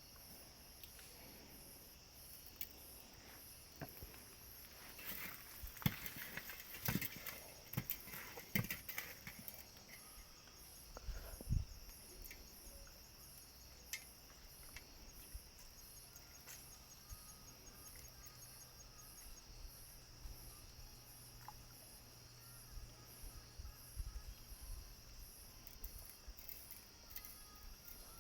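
A chorus of night insects chirping in a steady rhythmic pulse. A run of knocks and clatter from handling things at the camp comes a few seconds in.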